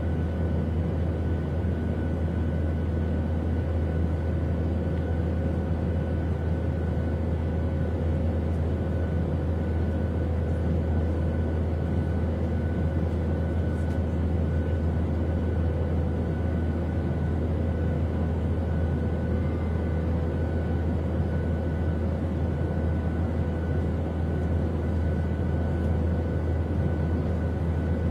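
Steady in-flight cabin noise of an airliner: a constant low rumble of engine and air noise with faint steady whining tones above it.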